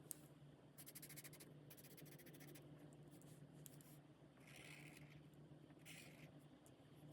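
Faint strokes of an alcohol marker's nib across coloring-book paper, in several short passes, with a light click just at the start.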